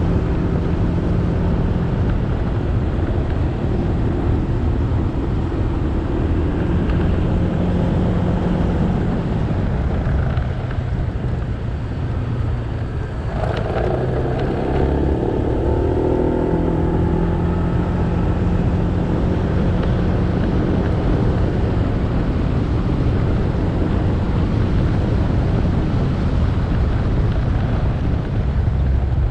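Motorbike engine running under way with road and wind noise. About halfway through the engine eases off, then a higher engine note joins in for a few seconds before the steady running resumes.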